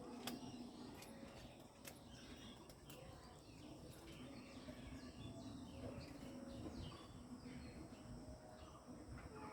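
Faint small birds chirping outdoors, with short falling calls repeating over a low, steady background rumble. A few sharp clicks come in the first two seconds.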